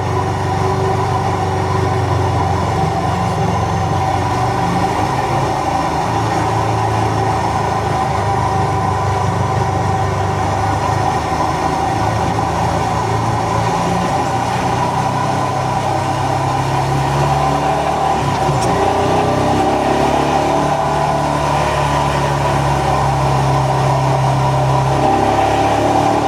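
Royal Enfield Himalayan 411's single-cylinder engine running on the move, its low note stepping up and down in pitch several times as the rider works the throttle.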